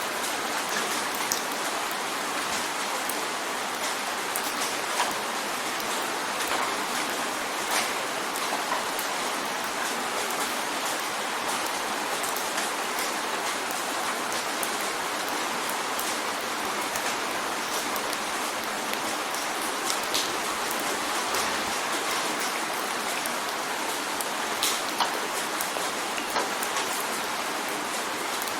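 Steady rain drumming on a window pane: a dense, even hiss with scattered sharp drop ticks.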